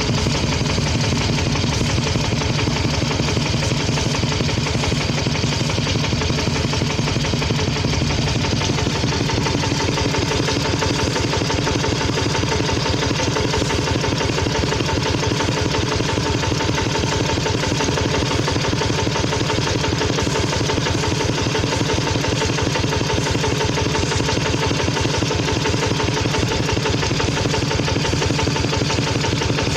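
Engine of a Khmer rice-harvesting tractor running steadily with a fast, even chugging beat.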